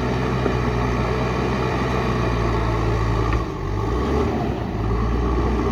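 Heavy earthmoving machine's diesel engine running steadily at working revs. Its note dips briefly about three and a half seconds in, then picks back up.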